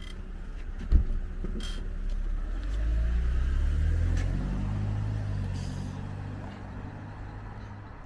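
A 2009 BMW 5 Series pulling away: one sharp thump about a second in, then the engine note rising for a couple of seconds and fading as the car moves off.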